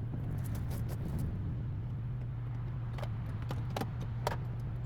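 A few sharp metallic clicks and clinks of a battery cable being fitted to the battery terminal, over a steady low hum.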